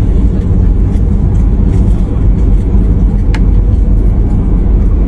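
Airbus A320 cabin noise during landing: a loud, steady low rumble of the aircraft, with one sharp click about three seconds in.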